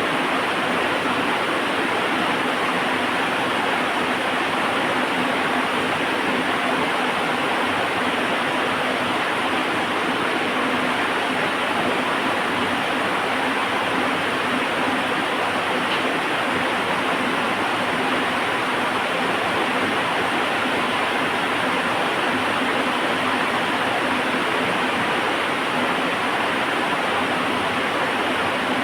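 Heavy rain falling, a steady even hiss with no change in level and no thunder.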